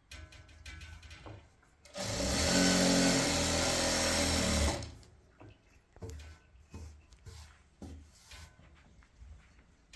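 A small electric motor runs loudly and steadily for about three seconds, then stops, with faint clicks and knocks before and after.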